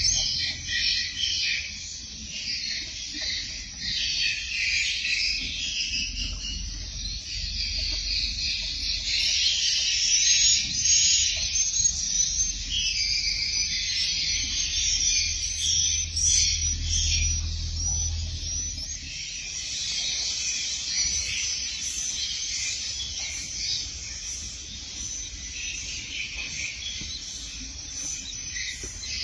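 Swiftlets twittering: a dense, continuous stream of short, high buzzy chirps. A low steady hum runs underneath and stops about two-thirds of the way through.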